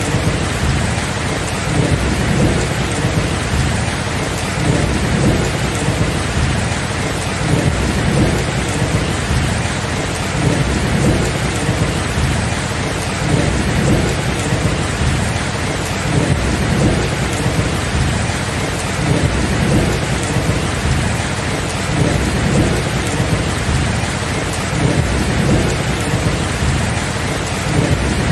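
Steady heavy rain with a continuous low rumble of thunder underneath, rising and falling every second or two.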